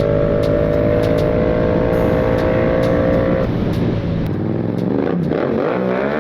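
A motor vehicle engine held at steady high revs, over a rough rumble, cutting out about three and a half seconds in and leaving a lower rumble.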